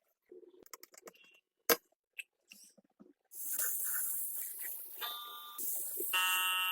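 A few light clicks and one sharp knock as parts are handled, then a small battery-powered motor starts and runs with a steady hiss and a high whine. It stops suddenly at the end.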